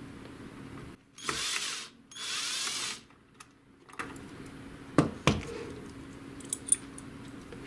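Screwdriver backing out a screw from a printer's chassis, running in two short whirring bursts, followed a couple of seconds later by a few sharp clicks of plastic or metal parts.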